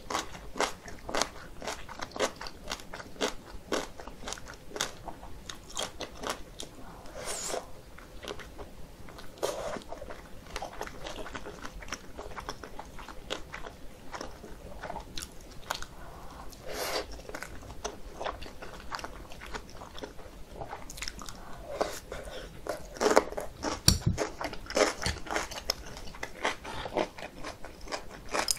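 Close-miked eating sounds: a dumpling being bitten and chewed, with a run of quick wet mouth clicks and crunches. A cluster of louder bites comes about three-quarters of the way through.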